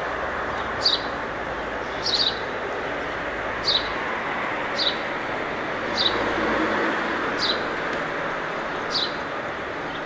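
A bird calling a short, high chirp over and over, about once every second or so, over the steady background noise of city traffic.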